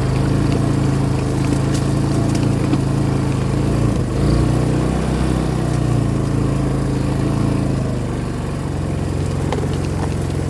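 A vehicle engine running steadily as the vehicle turns around. Its note shifts about four seconds in and settles lower near the end.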